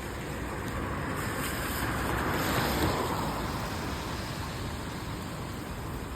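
A vehicle passing on a wet road: the hiss of tyres on water swells, peaks about halfway through and fades, over a steady wash of rain.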